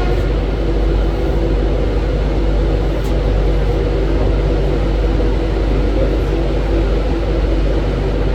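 Ivolga electric multiple-unit train running at speed, heard as a steady, loud rumble with a faint steady hum.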